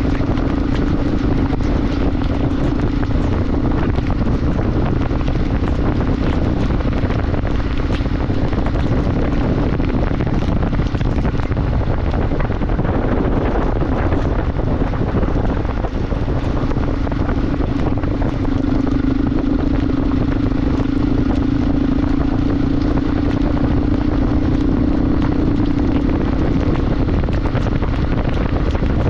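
Motorcycle riding at a steady speed: the engine runs with a steady drone under heavy wind noise on the microphone. The engine note drops away for a few seconds around the middle, then returns.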